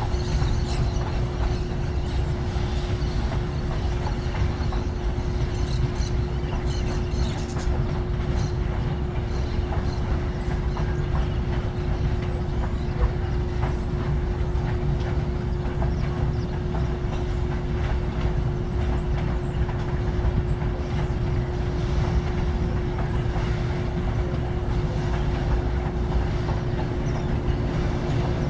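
Loaded freight train wagons rolling steadily past: a continuous rumble of wheels on rail with clickety-clack and a constant steady hum.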